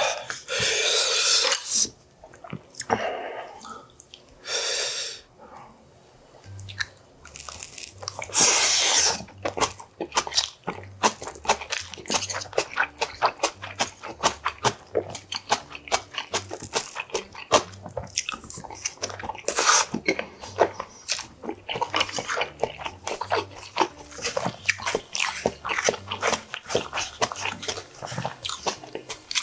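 Close-miked eating sounds: a man chewing mouthfuls of rice and Korean side dishes, with many crunchy, wet chewing clicks several times a second, densest over the last two thirds.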